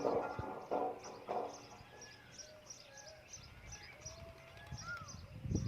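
Mixed wild birdsong: three short, harsh calls in the first second and a half, then whistled gliding notes over a steady run of high, rapid chirps. A low rumbling noise comes in near the end.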